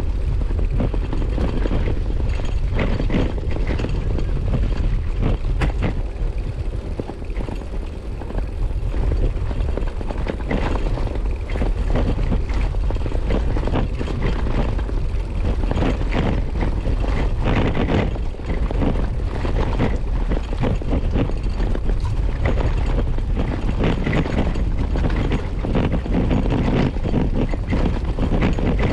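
Wind buffeting the microphone over the rattle and knocking of a Brompton folding bicycle being ridden over an uneven path.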